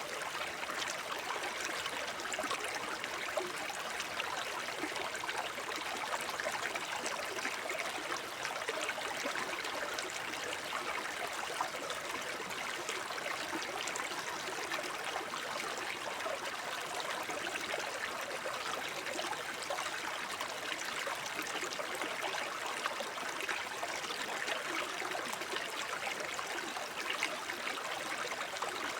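Shallow forest stream babbling and trickling over stones, a steady, even rush of water with fine gurgles throughout.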